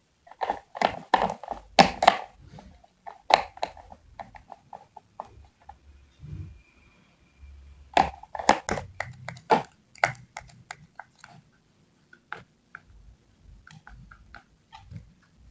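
Vegetables being cut and handled on a board: quick runs of sharp, crunchy cuts and taps, with a pause partway through and lighter scattered clicks near the end.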